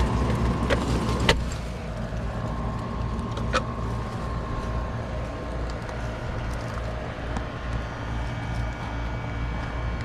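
Steady low hum of an old Lennox air-conditioner condenser, with a few light clicks of parts or tools being handled, on a unit whose compressor is not running because of a bulged, failed run capacitor.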